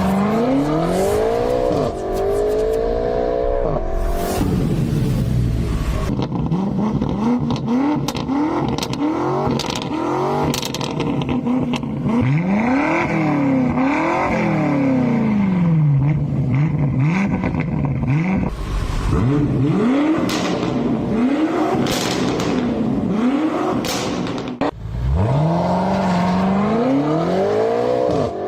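BMW F90 M5's twin-turbo V8 through an aftermarket exhaust, revved up and down over and over, its pitch rising and falling with each pull, with several sharp cracks along the way.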